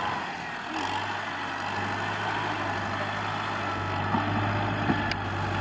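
Kubota M6040SU tractor's four-cylinder diesel engine running steadily, its low hum settling in about a second in. A short click near the end.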